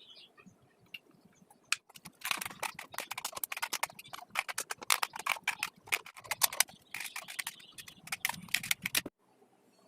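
Rapid, irregular clicking and scraping of small hand work on hard parts, starting about two seconds in and stopping abruptly near the end.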